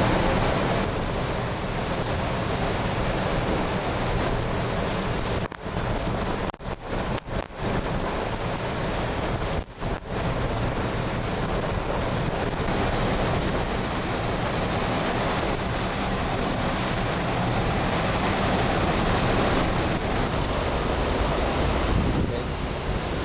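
Wind blowing across the microphone over breaking surf, a steady loud rush. It cuts out briefly several times between about six and ten seconds in.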